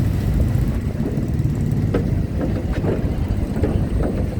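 Loud, steady low rumble of vehicle engines as cars and trucks drive onto a ferry, with a few faint short sounds in the middle.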